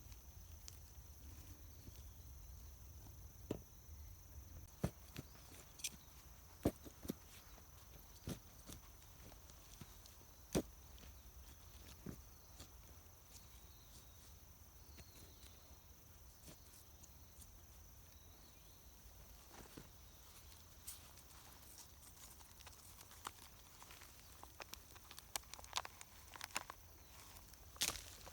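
Scattered sharp clicks and knocks, irregular and a second or more apart, coming more often near the end, over a faint steady high-pitched tone.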